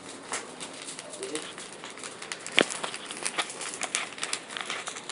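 Large wood bonfire crackling, with irregular pops and one sharp, loud snap about two and a half seconds in.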